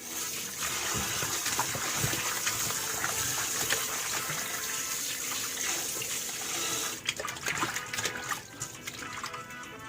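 Water running from a tap for about seven seconds, then cut off, followed by scattered splashes and clicks of water being handled.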